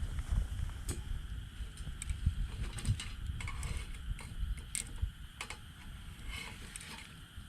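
Wood fire crackling in a fire pit: irregular sharp snaps and pops, several of them louder, over a low rumble.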